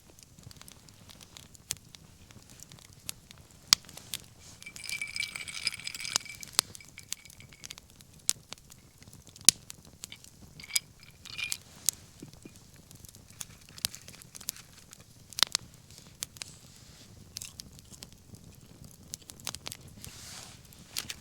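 Wood bonfire crackling, with irregular sharp pops. About five seconds in, a thin high whistle comes from the burning wood for over a second, and it whistles again briefly near eleven seconds.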